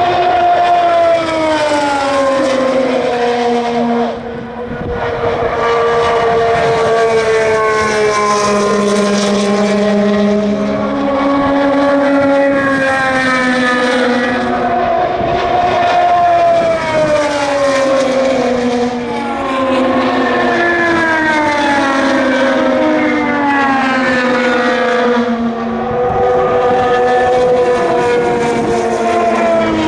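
2016 IndyCar cars with 2.2-litre twin-turbo V6 engines passing at speed one after another, each engine note falling in pitch as the car goes by. The notes of several cars overlap almost without a break, with a short lull about four seconds in.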